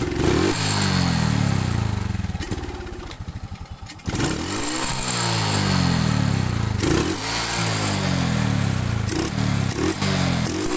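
Honda XRM 125 single-cylinder motorcycle engine running and being revved after hard starting, which is blamed on a dirty, water-soaked air cleaner. About two and a half seconds in it slows and stutters, nearly dying. About four seconds in it catches again and keeps running, blipped up and down.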